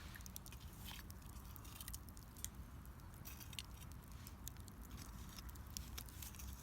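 Wood fire crackling, with many small irregular snaps and ticks over a low steady rumble.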